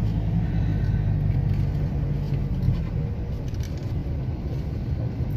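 Motor vehicle engine and road noise: a steady low rumble that eases a little about halfway through.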